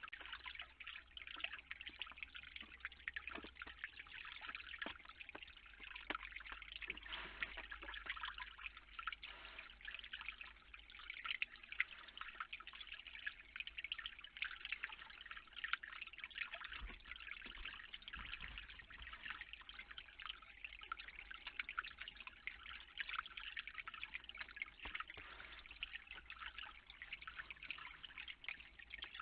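Steady, faint patter of dripping and trickling water, many small drips close together.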